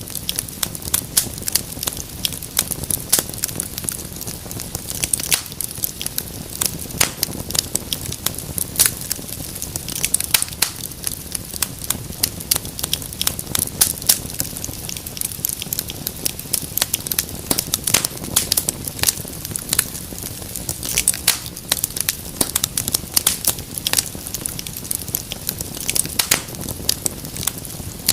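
Wood fire crackling steadily, with irregular sharp pops and snaps over a soft hiss.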